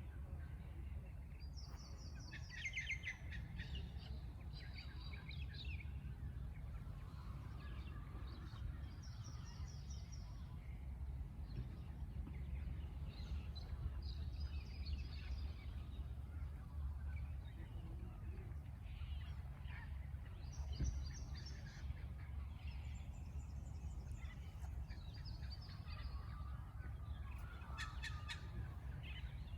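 Several birds calling outdoors: repeated chirps and quick trills follow one another throughout, with a harsher, noisier call near the end, over a steady low rumble of background noise.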